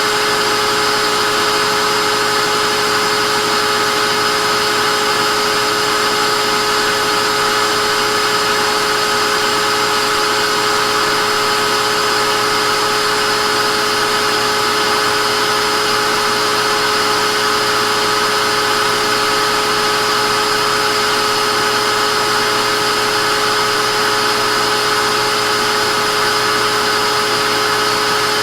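Vacuum cleaner motor running continuously at a steady speed: an even rushing noise with a fixed motor whine, unchanging throughout.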